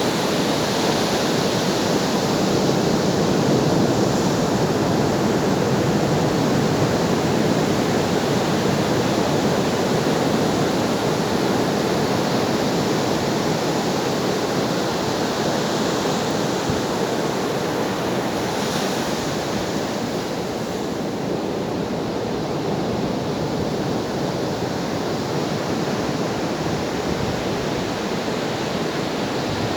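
Ocean surf: a continuous wash of waves breaking, a little louder a few seconds in and easing off slightly past the middle.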